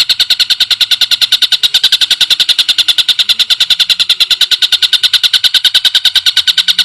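Recorded songbird trill for birdsong training: a very rapid, even string of high notes, about ten a second, running without a break.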